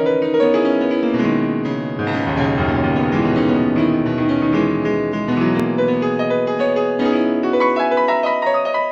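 Solo piano music, a flowing run of notes with held bass notes underneath.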